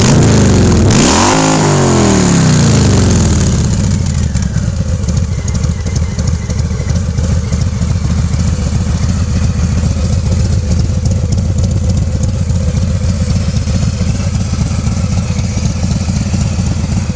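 Harley-Davidson Fat Boy 114's Milwaukee-Eight 114 V-twin through Shark Road 3.5-inch slip-on mufflers with wrapped louvered baffles and Thundertorque inserts: a throttle blip in the first couple of seconds that falls back, then a steady idle.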